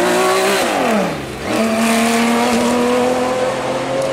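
Classic car engine running hard at high revs on a straight. Its pitch drops steeply about a second in, then jumps back up and holds high, climbing slowly.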